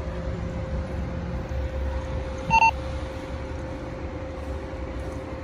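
Low, steady rumble of a running vehicle engine under a constant hum, with a short double beep about two and a half seconds in.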